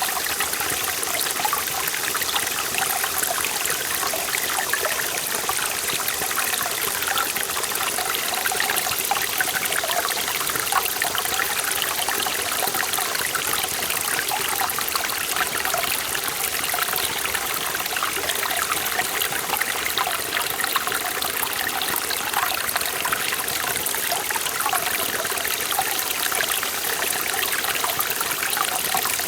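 Forest valley stream flowing steadily, a continuous rush of water with constant fine splashing and gurgling.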